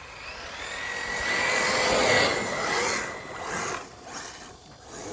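Two RC racing buggies accelerating away at a race start, their motors whining over a hiss. The sound builds to a peak about two seconds in, then fades as they move off.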